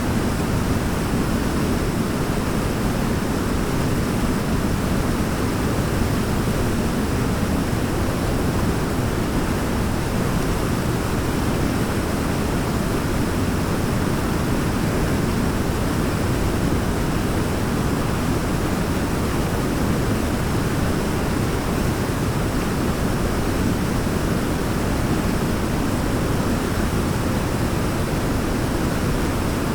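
Waterfall pouring: a steady, unchanging rush of falling water, heaviest in the low range, with no distinct splashes or breaks.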